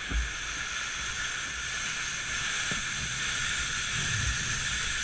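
Steady rushing hiss of a racing kayak moving fast, growing slightly louder, with a couple of low thumps, one near the start and one about four seconds in.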